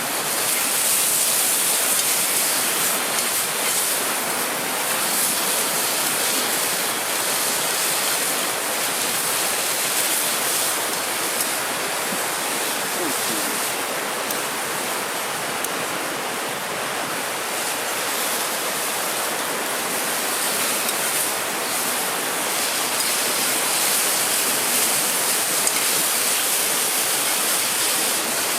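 Mountain stream rushing steadily, a continuous even wash of flowing water.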